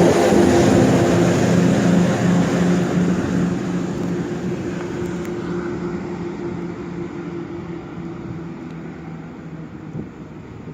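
NJ Transit ALP-45DP dual-mode locomotive running on its diesel engines as it shoves the train out of the station. The steady engine drone fades as the train pulls away.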